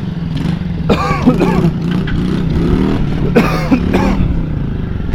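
Small gas mini bike engine running steadily at idle, with two short bursts of a person's voice, at about one second and three and a half seconds in.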